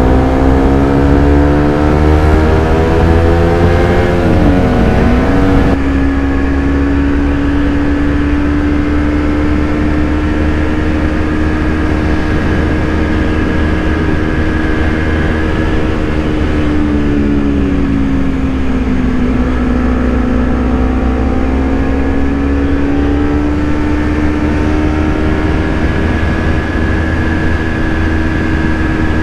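Honda CBR250RR parallel-twin engine under way at speed. Its note climbs through the revs, drops quickly for a gear change about four seconds in, then runs steady at around 100 km/h. Near the middle it eases off briefly and picks up again, with wind rumbling over the helmet microphone.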